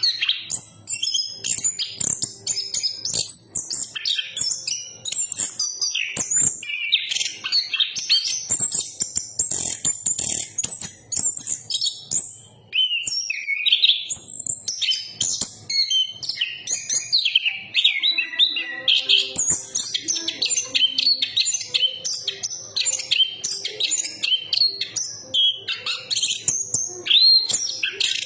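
Chestnut-capped thrush singing a long, unbroken run of quick, varied whistled and chattering notes, high-pitched and with hardly a pause.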